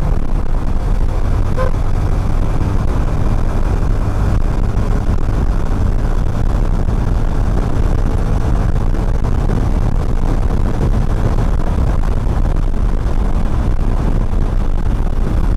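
Motorcycle riding at road speed: a steady low engine drone mixed with wind and road rush on a chest-mounted action camera.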